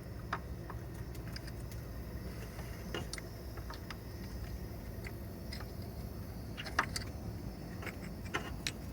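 Scattered light metallic clicks and clinks of a timing belt tensioner, its bolts and hand tools being handled while fitting, the sharpest a few close together near the end, over a steady low hum.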